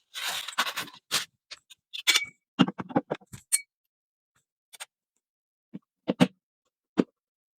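Cover plate being fitted over a newly wired 220 V outlet: a scrape, then a run of irregular small clicks and taps of plate and screws against the box, thinning out to a few isolated clicks.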